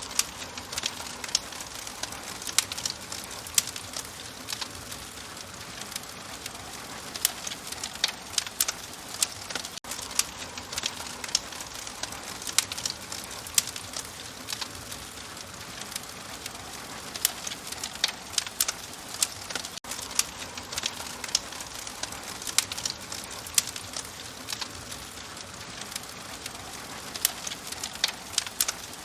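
Fire crackling, with irregular sharp pops and snaps over a steady soft hiss.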